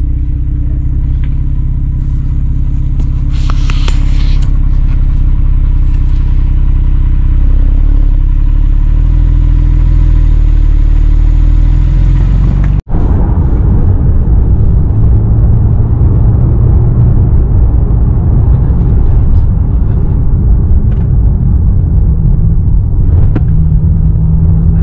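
Porsche engine running as the car drives, a steady low engine note at first; after a sudden cut about halfway through, louder and rougher engine and road noise, the engine note rising near the end.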